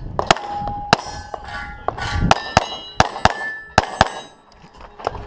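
A 9mm Glock 34 with a compensated barrel fired in quick strings, about eight shots, most followed by the ring of a struck steel plate. There is a brief pause after the second shot, and the firing stops about a second before the end.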